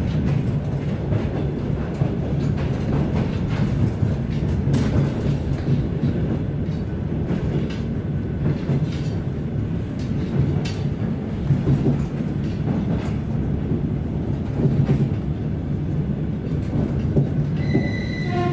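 Aeroexpress airport train heard from inside the passenger car while running: a steady rumble with irregular clicks from the wheels on the track. A brief tone sounds near the end.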